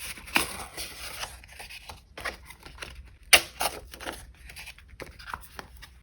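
Paper collage materials handled close to the microphone: a rustle of paper sliding for about two seconds, then a few separate sharp, crisp strokes, the loudest a little past the middle.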